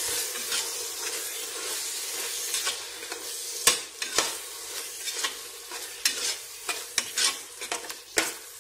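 Mutton in thick masala sizzling in oil in a pressure cooker while a metal ladle stirs it, scraping the pot with irregular sharp knocks of metal on metal. The mixture is being sautéed until the oil separates from the masala.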